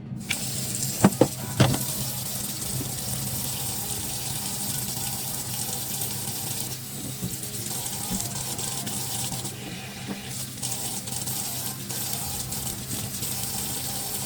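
Kitchen tap running steadily into a sink. About a second in come three sharp knocks.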